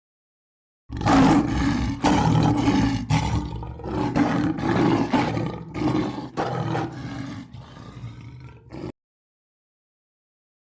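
A large wild animal roaring: a run of about a dozen deep, loud calls coming roughly every half second, fading toward the end and then cutting off abruptly.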